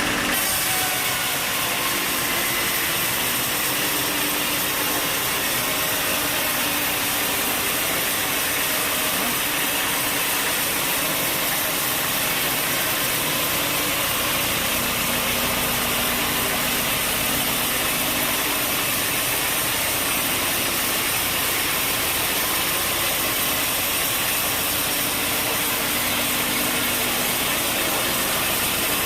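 Sawmill machinery running steadily: a continuous engine-driven drone with a strong hiss over it, unbroken throughout.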